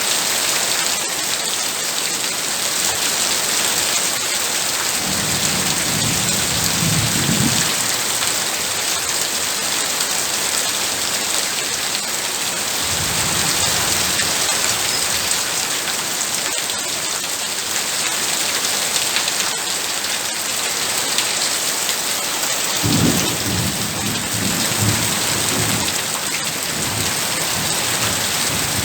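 Heavy rain pouring steadily, with low thunder rumbling three times: about five seconds in, around thirteen seconds in, and a longer rumble from about twenty-three seconds in.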